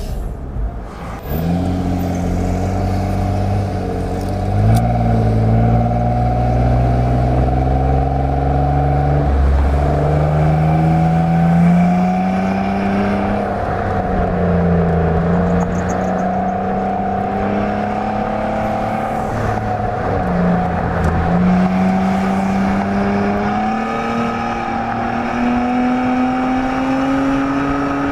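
Exhaust of a 2017 Nissan Maxima's 3.5-litre V6 with the resonator deleted, recorded right above the exhaust tips, running under way. The pitch climbs and dips several times, with dips about 15 and 21 seconds in, then rises steadily toward the end.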